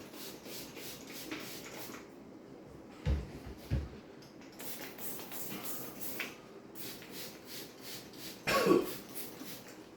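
Rubbing and wiping strokes on the inside of a microwave oven, with two dull knocks about three seconds in and a brief louder sound near the end.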